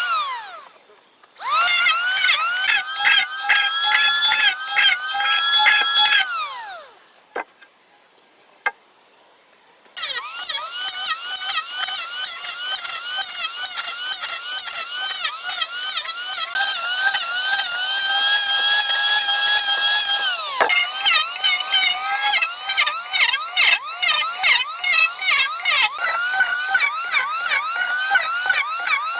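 Chainsaw running at high revs and cutting wood, its pitch wavering under load. The revs fall away about six seconds in, leaving a few seconds of quiet with two clicks. The saw then runs again and keeps cutting, with its pitch dropping briefly partway through.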